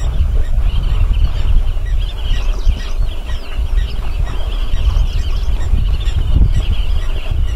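Many birds calling in a dense, continuous chatter of short high chirps, over a steady low rumble.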